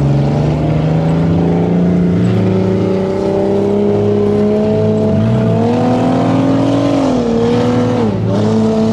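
Tuff truck's engine running hard on the course. The pitch climbs slowly for several seconds, then dips sharply twice near the end and comes back up.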